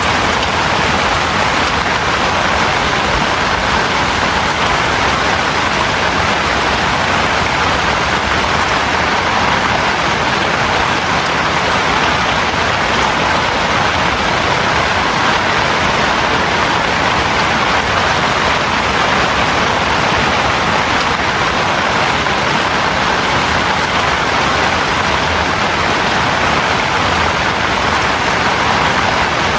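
Heavy rain falling steadily, a dense unbroken hiss of downpour.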